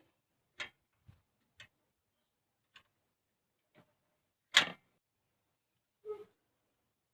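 A few short, irregular clicks and knocks with silence between them, one noticeably louder knock a little past the middle.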